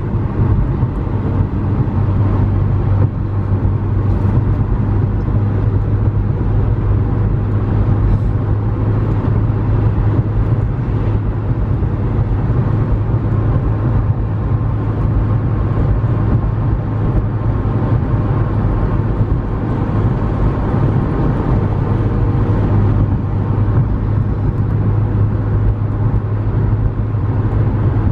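McLaren 650S Spyder driving at a steady pace: its twin-turbo V8 gives a constant low drone with road and tyre noise, without revving or gear changes.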